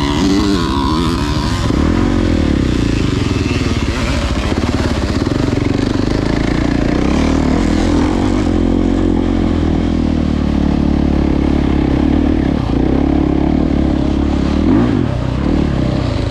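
Dirt bike engine running continuously, its pitch rising and falling with the throttle at the start and again near the end.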